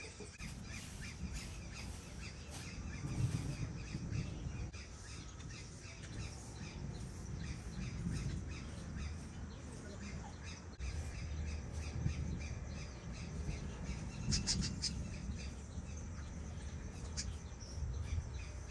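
Birds squawking and calling, with a cluster of sharp calls a little past the middle, over a low, uneven rumble.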